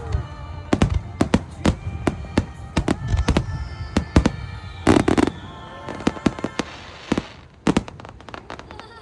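Fireworks display: many sharp bangs and crackles of bursting shells in quick succession, with a heavy burst about five seconds in. A thin high whistle glides slowly down between about three and five seconds.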